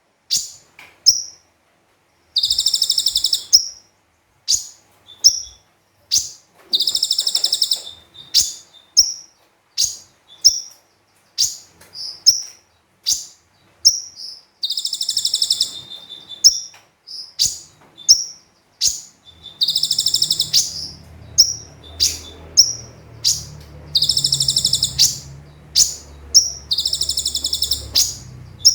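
Brown-throated sunbird (konin) singing: sharp, high chirps repeated every half-second or so, broken several times by rapid buzzy trills about a second long. A faint low hum joins about two-thirds of the way in.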